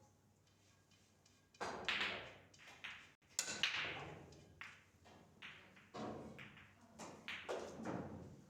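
Pool balls clacking against each other in a run of sharp knocks with a short ring after each, starting about one and a half seconds in.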